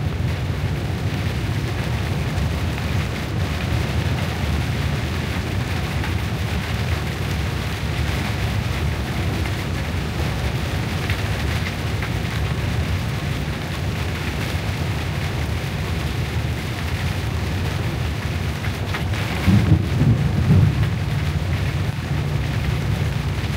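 Rain hitting a vehicle's windscreen, heard inside the moving cabin over a steady low rumble of road and engine noise. A louder low rumble swells briefly about twenty seconds in.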